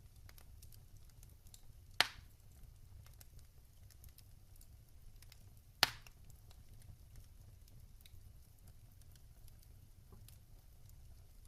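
Wood fire burning in a fireplace: a low rumble of flame with scattered small crackles, and two loud sharp pops about two seconds and six seconds in.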